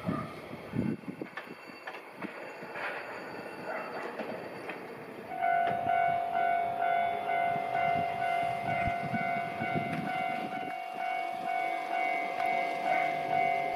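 Enshu Railway Type 30 train running at a station, with rail clicks and rumble. About five seconds in, a railway level-crossing alarm starts ringing in a steady, repeating ding pattern that is the loudest sound from then on.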